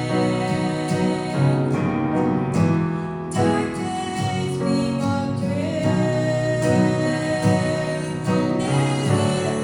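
Two women singing a gospel praise-song duet, accompanied by piano and guitar, with one long held sung note in the middle.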